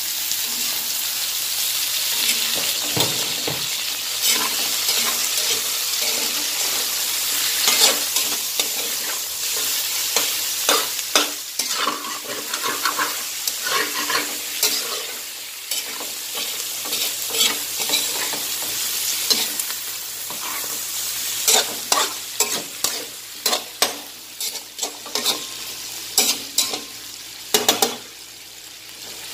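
Raw chicken drumsticks sizzling with onions in hot oil in a large aluminium wok, stirred and turned with a slotted metal spatula that scrapes and clacks against the pan again and again. The sizzle is steady, while the spatula strokes come in irregular clusters.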